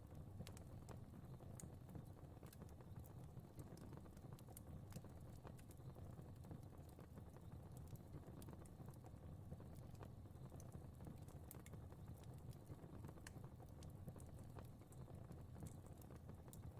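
Faint fire crackling: irregular small snaps and pops over a low, steady rumble of flames.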